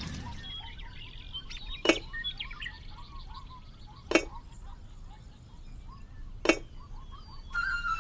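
Three sharp clinks, evenly spaced a little over two seconds apart, with faint short chirps between them.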